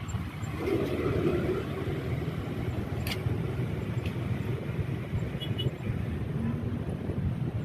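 Motorcycle riding through city traffic: a steady rumble of engine and road noise that swells about a second in, with a sharp tick about three seconds in.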